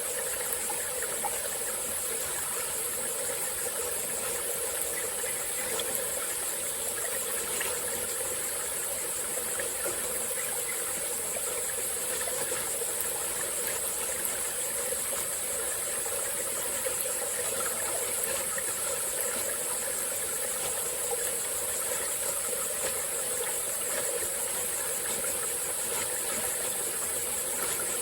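A small forest stream flowing steadily, with a continuous high-pitched chorus of insects over the water.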